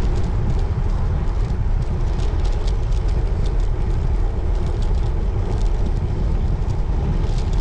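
Steady wind noise on the microphone together with tyre and road noise from a road bike being ridden, with faint light ticks over it.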